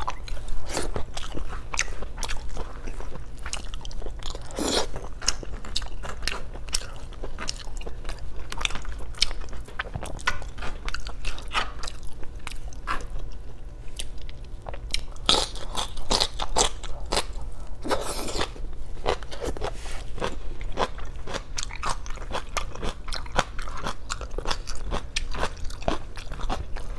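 A person eating close to the microphone: steady chewing with many sharp crunches, bites and mouth clicks, as of a crisp fresh green chili and scraps of food being bitten and chewed.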